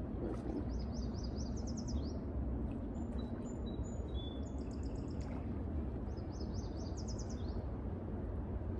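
A songbird singing three times, each song a quick run of high, falling notes, with a few short thin whistles between the first two songs, over a steady low background rush.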